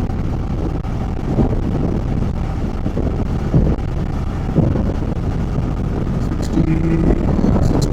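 Motorcycle cruising at a steady speed of about 50 km/h: steady engine and road noise with wind buffeting the camera microphone. A short steady tone comes in near the end.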